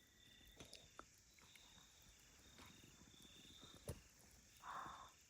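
Near silence with faint crickets chirping in a steady pulsing trill, plus a soft tap about four seconds in and a brief soft hiss near the end.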